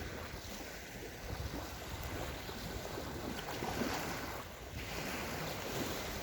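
Small sea waves washing onto a sandy shore, several swells of surf one after another, with wind buffeting the microphone.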